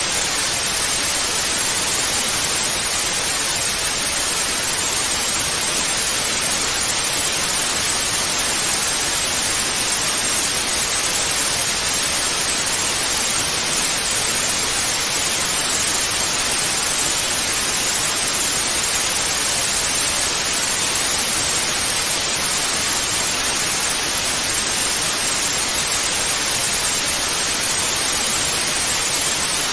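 Television static: a steady, even hiss of white noise with no changes.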